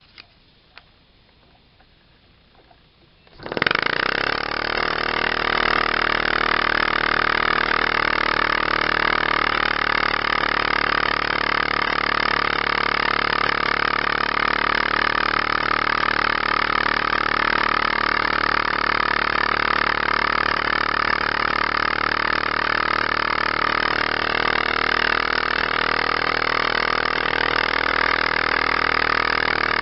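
A small model uniflow engine starts up about three and a half seconds in and then runs fast and steady, a loud, even hissing hum from its exhaust blowing out through a ring of small holes. Two faint clicks come just before it starts.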